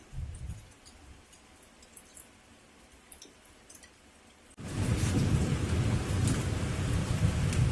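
Heavy rain with a deep low rumble that cuts in suddenly a little over four seconds in. Before that it is quiet, with a soft thump at the start and scattered faint ticks.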